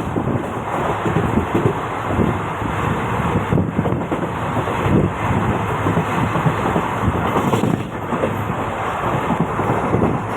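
Express train running through a station at speed without stopping: a steady loud rush with rapid rattling of wheels on rail, and wind buffeting the microphone.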